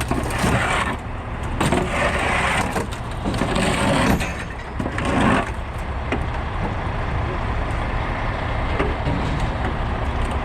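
Heavy truck diesel engine running steadily, with several short hissing, crackling bursts in the first half.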